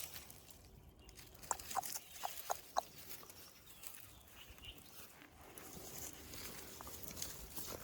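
Newborn puppies squeaking: a quick run of about five short, high cries about a second and a half in, over faint rustling.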